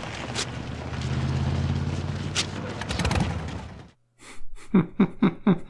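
A low, steady engine-like rumble with a few sharp clicks, cutting off suddenly about four seconds in. A fast rhythmic pulsing follows, about four beats a second.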